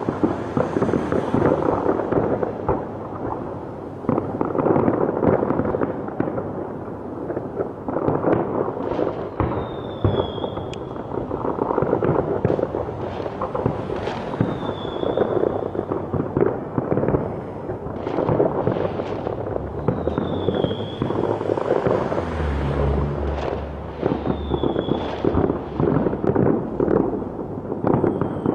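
Fireworks going off: continuous dense crackling and popping from many bursts, with a short, slightly falling whistle about every five seconds.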